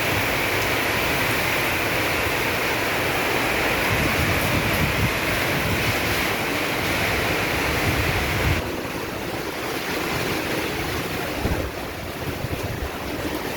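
Heavy downpour of rain with strong wind gusting against the microphone. The hiss of the rain drops back somewhat about two thirds of the way in, while the low rumbling gusts carry on.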